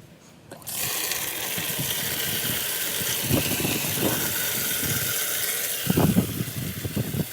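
Water running in a steady, hissing stream as the 5-gallon bucket chicken waterer is filled; it starts about a second in. Near the end there are some low knocks and clunks.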